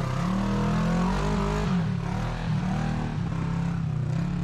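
Off-road vehicle engine revving under load on a rocky climb, its pitch rising and falling over the first two seconds or so, then running steadier.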